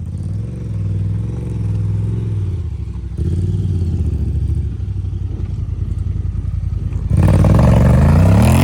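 Honda Talon side-by-side's parallel-twin engine running under strain on a tow strap, its note wavering. About seven seconds in it revs hard with a steeply rising pitch as it tries to drag a truck buried to the frame, without freeing it.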